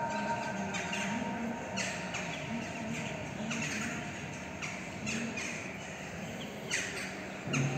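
Birds calling: a string of short, high chirps that slide steeply down in pitch, roughly one a second, some in quick pairs, over a faint low murmur.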